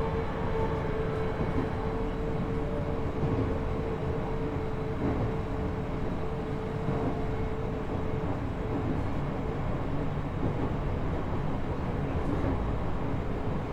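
JR East E127 series electric train running at speed, heard from inside the car: a continuous rumble of wheels on rail with a steady whine that fades from about halfway through.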